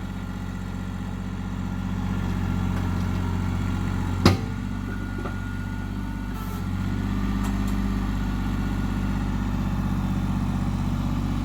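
Yanmar compact tractor's diesel engine running steadily, with one sharp knock about four seconds in and the engine getting a little louder around seven seconds in.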